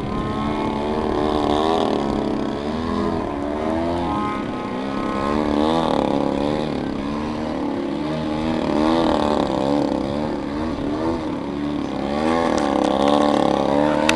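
Engines of large radio-controlled aerobatic model airplanes running in flight, their pitch sliding up and down again and again as the planes throttle and pass by, with one plane coming in to land.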